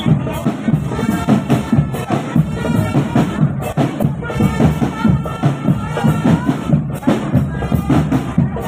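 Marching drumband playing: a dense, steady drum beat with a melody line held above it.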